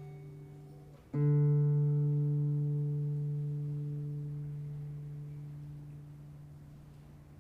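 Viola caipira, a Brazilian ten-string guitar: the last notes of a picked phrase die away, then one low final note is plucked about a second in and left to ring out, fading slowly.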